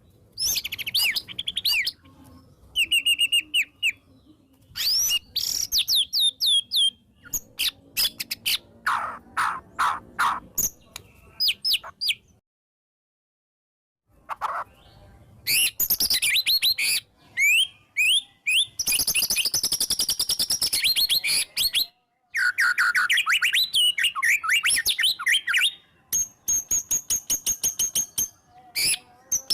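White-rumped shama (murai batu) in full, agitated song: loud volleys of fast sweeping whistles, chatters and rapid repeated notes, packed with mimicked phrases of other birds. The song cuts out completely for about a second and a half near the middle.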